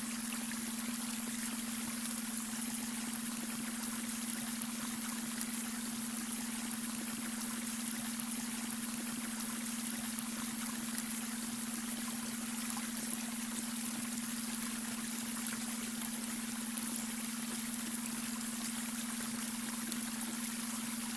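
Babbling brook: running water flowing steadily, with a steady low hum underneath from a beta brainwave tone blended into the soundscape.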